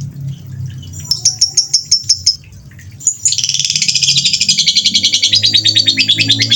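A songbird singing: a quick series of sharp high notes about a second in, then after a short pause a fast, dense trill of rapid high notes that carries on, over a low steady hum.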